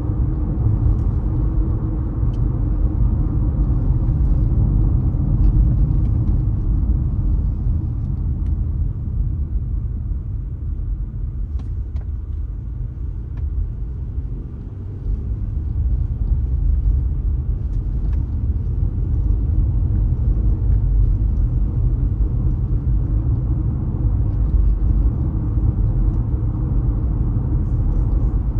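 Car driving through city streets: a steady low rumble of road and tyre noise with the engine underneath. It eases off for a few seconds around the middle, then builds again, with a few faint ticks along the way.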